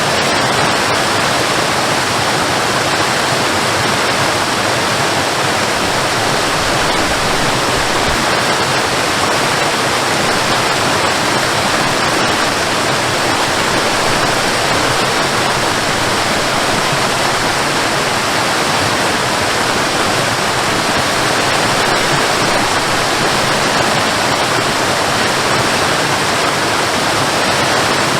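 Waterfall rushing: a steady, loud, unbroken roar of falling water.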